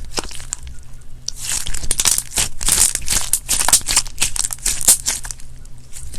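Slime being squeezed and pressed, giving a dense run of crisp crackles and pops that starts about a second in and thins out near the end.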